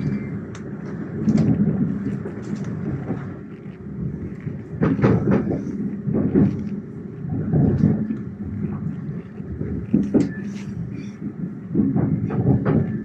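Train running on the rails: a continuous low rumble that swells and fades every second or two, with scattered metallic knocks and clatter.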